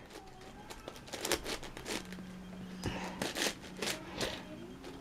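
Irregular plastic clicks and clacks of a large 11x11x11 Rubik's cube as its layers are turned and the cube is handled.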